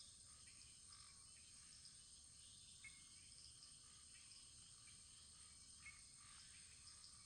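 Very faint wood fire crackling: a steady hiss with scattered small crackles and two slightly louder pops, about three and six seconds in.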